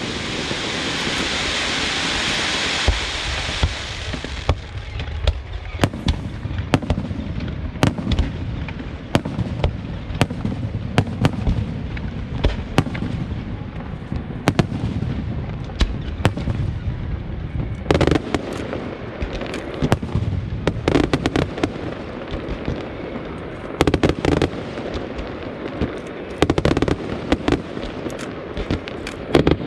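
Aerial fireworks display: shells bursting in rapid, almost continuous bangs and pops. It opens with a few seconds of hissing crackle, and heavier clusters of bursts come now and then.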